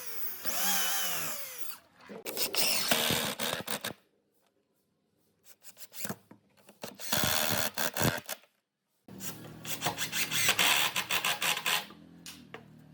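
Handheld power drill running in repeated bursts of one to three seconds, its motor speeding up and slowing down, with short pauses between runs.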